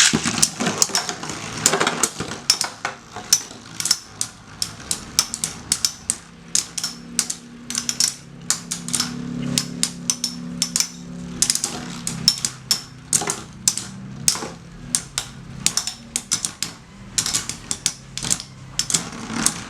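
Metal Fight Beyblade spinning tops (Lightning L-Drago, Storm Pegasus and Rock Leone) battling in a stadium: a loud burst at the start, then rapid, irregular metal-on-metal clacks as the tops collide, over a low whirr of the spinning tops.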